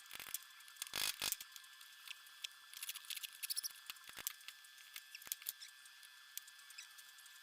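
Irregular light clicks and small taps, a few louder ones about a second in, over a faint steady high whine.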